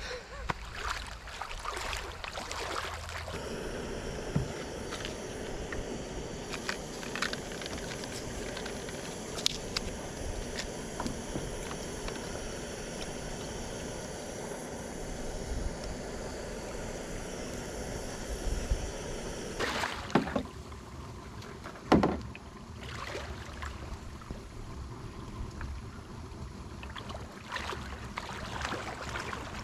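Water moving around a kayak, with clicks and knocks of gear being handled on the boat. A steady hiss runs through the middle and cuts off suddenly, and there is one loud knock near the end.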